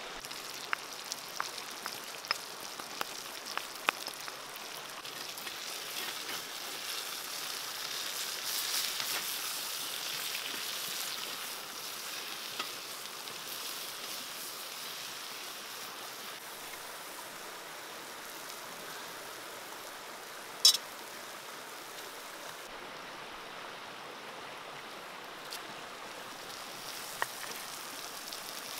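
Water spinach and chili sizzling as they are stir-fried in a clay pot over a wood fire: a steady hiss that swells for several seconds about a quarter of the way in. There are light clicks of the spatula in the first few seconds and one sharp click about two-thirds of the way through.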